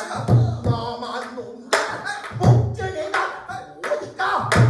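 Pansori singing accompanied on a buk barrel drum: a wavering voice over irregular deep drum strokes and sharp strikes on the drum's wooden rim.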